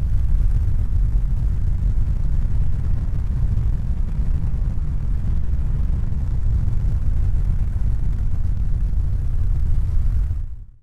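Steady low rumbling noise with no distinct tones or clicks, fading out near the end.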